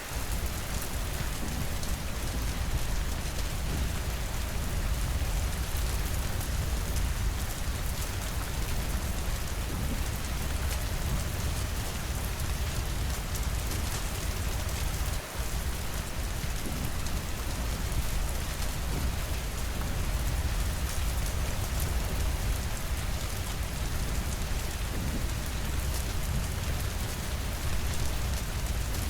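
Steady, even rainfall with fine scattered drop ticks over a low rumble. The sound briefly drops away about halfway through.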